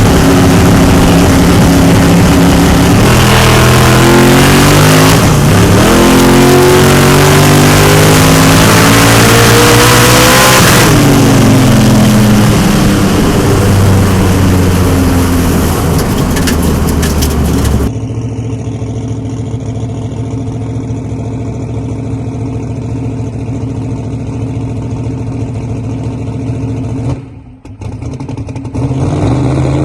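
Twin-turbo 1970 Chevelle's engine under hard acceleration on a test pass, its pitch climbing, dropping briefly around a shift and climbing again, then falling away as it lets off. About two-thirds in the sound cuts abruptly to a quieter, steady engine running, with a brief dropout near the end.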